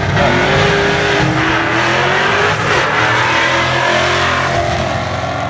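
V8 drag car launching and accelerating hard down the strip, its engine rising in pitch as it pulls away.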